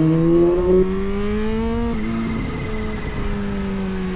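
Kawasaki Z H2's supercharged inline-four engine accelerating, its pitch climbing for about two seconds, then dropping suddenly at an upshift midway and holding roughly steady afterwards.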